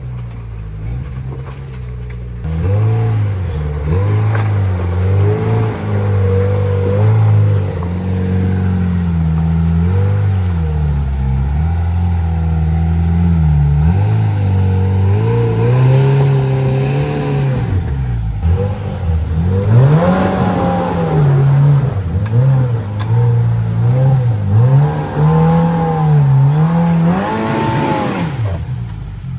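Side-by-side UTV engine working over rocks, its revs rising and falling over and over as the throttle is fed on and off, with several sharper revs in the second half.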